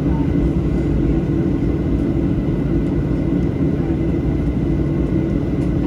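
Steady airliner engine and cabin noise heard from inside a Boeing 737 cabin: an even low rumble with a constant hum and a faint high whine.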